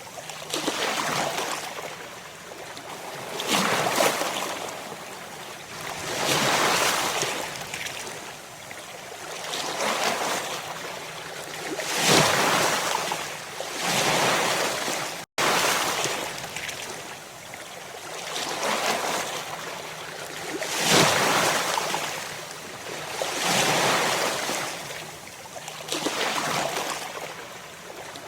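Ocean waves crashing, a swell of surf noise every two to three seconds. The sound drops out for an instant about halfway through.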